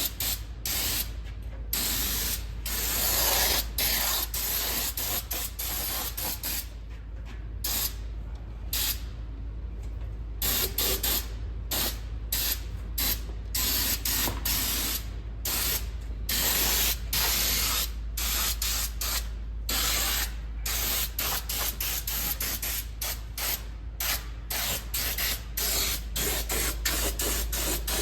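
Fluid Film rust inhibitor being sprayed onto a vehicle's underside from a spray applicator, hissing in repeated on-off bursts as the trigger is squeezed and released, some bursts short and some lasting a couple of seconds. A steady low hum runs underneath.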